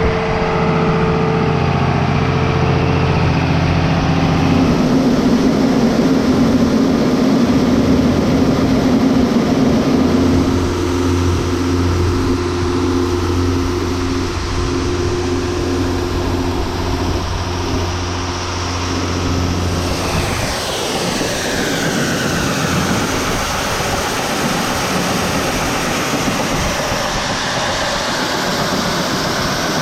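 Tractor engine running at a set RPM, driving a grain auger that unloads a wagon of soybeans. About two-thirds through, the steady drone breaks off with a falling whine, and a rougher, noisier running follows.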